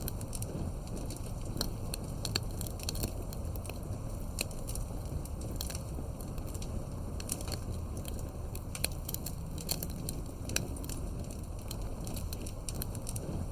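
Campfire with firewood burning: a steady low rumble of flames under irregular sharp crackles and pops from the burning wood.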